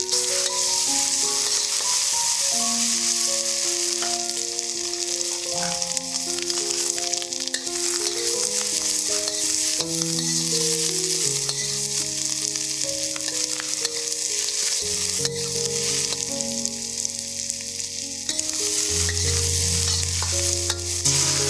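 Mutton pieces frying in hot oil with spice paste and onion in a steel wok, a steady sizzle, stirred with a metal spatula. Background music with a slow melody plays underneath.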